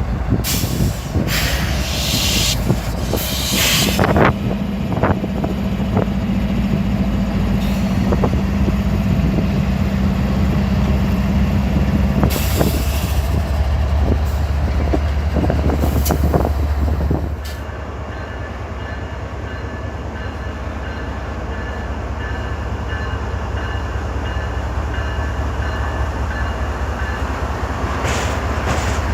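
A train passing close by: a steady low diesel engine drone with wheels clicking over rail joints and brief high wheel squeals. About two-thirds of the way through, the sound drops suddenly to a quieter, steadier rail rumble with faint high tones.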